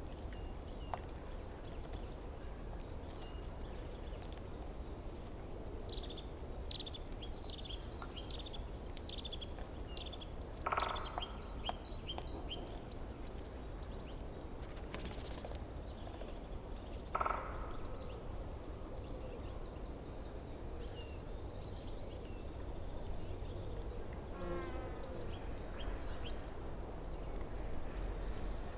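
Steady low rush of a forest stream, with a songbird singing a quick run of about nine high descending notes in the first half and two short, lower calls a little later.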